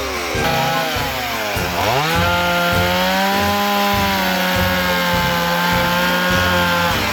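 Chainsaw engine running under load, as if cutting wood: its pitch sags during the first two seconds, then climbs back and holds steady at high revs until near the end.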